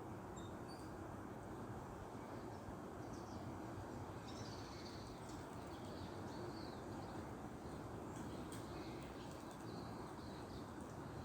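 Birds chirping intermittently in short, high calls over a steady low background hiss of outdoor ambience.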